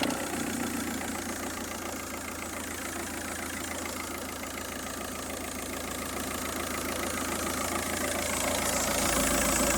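Car engine running at idle, steady, growing a little louder near the end.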